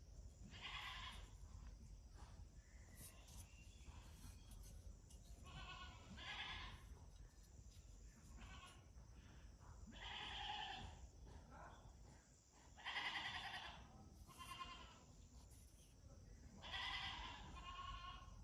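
Short wavering animal calls, about six of them spaced a few seconds apart, the loudest about two thirds of the way through, over a faint steady background.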